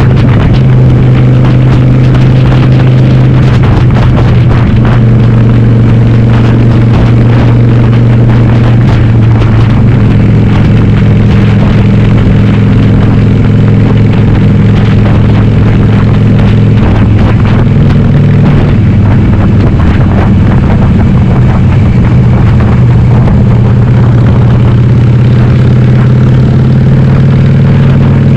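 Harley-Davidson Sportster's 1200 cc air-cooled V-twin running loud under way through a Cobra Speedster 909 exhaust with the dB killers removed. The engine note holds steady, then shifts in pitch a few times, around ten seconds in and again near eighteen seconds, as speed or gear changes.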